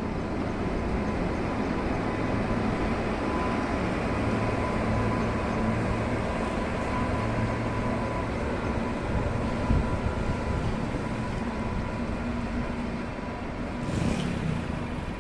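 Pune–Bilaspur Express passenger train running, a steady rumble with a constant low hum and a faint steady higher tone. A brief louder noise comes near the end.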